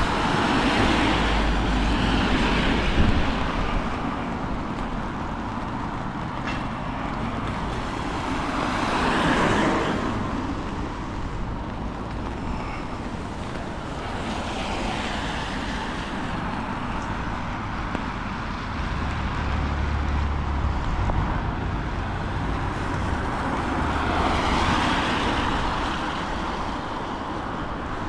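Road traffic passing: a steady noise of vehicles, swelling and fading several times as cars go by, with a low engine rumble now and then.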